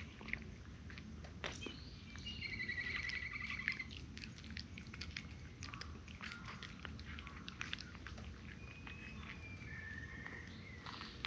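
Cats crunching dry kibble, a rapid, irregular run of crisp crunches and chews.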